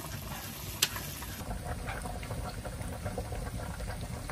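Sliced garlic and onion sizzling in olive oil in a frying pan as they are stirred with wooden chopsticks, with one sharp click about a second in.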